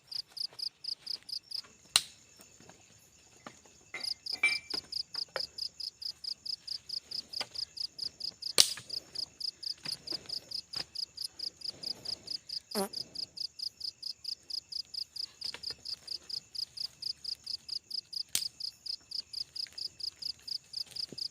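Insect chirping in a fast, even rhythm, about five high chirps a second, which stops for a couple of seconds near the start and then carries on. A few sharp knocks or snaps cut in now and then.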